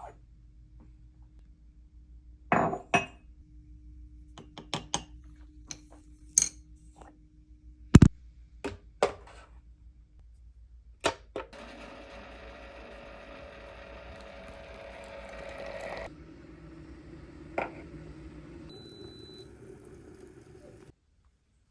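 Cups, utensils and kitchenware clinking and knocking a dozen or so times during matcha preparation, followed about halfway in by several seconds of a steady sound with a pitched whine, then a softer hiss that stops shortly before the end.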